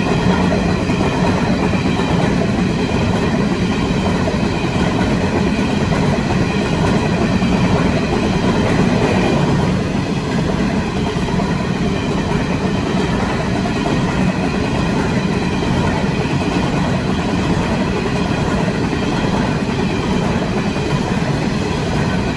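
A freight train of coal hopper wagons rolling past close by: the steady, unbroken rumble of steel wheels on the rails.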